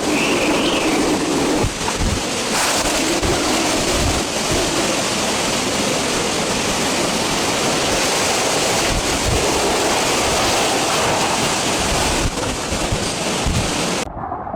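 Super typhoon winds blowing hard, with heavy wind buffeting on the microphone and a howling tone that wavers up and down in the first few seconds. The sound cuts off abruptly near the end.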